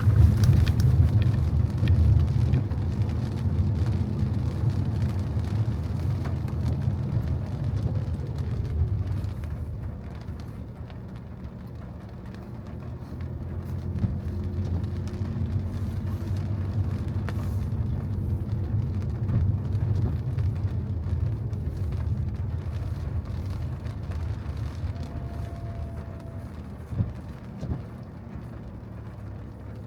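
Car driving on wet roads: a low rumble of engine and tyres that eases off about ten seconds in, builds again, then fades near the end. A short knock sounds near the end.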